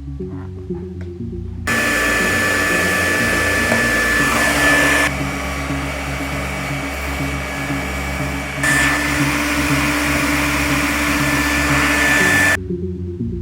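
A handheld power tool's motor runs steadily with a high whine, starting about two seconds in and cutting off suddenly near the end; its higher sound drops away for a few seconds in the middle and then returns. Background music plays throughout.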